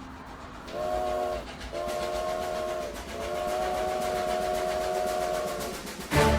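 Train whistle sound effect: three chord-like blasts, two short and one long, over a rhythmic clatter of a moving train. Music starts just at the end.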